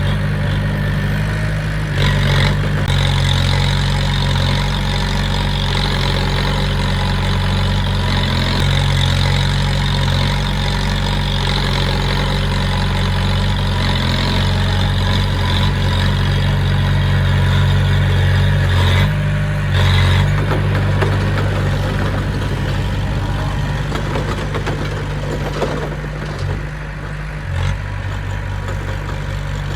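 Heavy machinery's diesel engine running steadily under load, with a couple of brief knocks about two seconds in and again around two-thirds of the way through.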